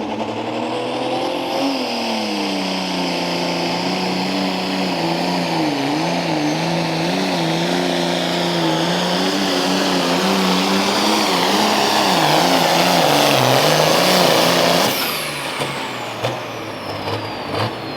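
Turbocharged pulling tractor engine working hard through a pull, its pitch wavering as the load changes. About 15 seconds in the throttle is cut and the engine note drops away, leaving a high turbo whine winding down and a few clicks.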